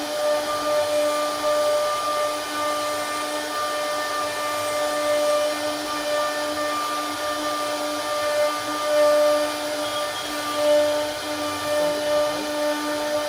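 CNC router spindle running with a steady whine while its bit cuts into wood, over a constant rushing noise.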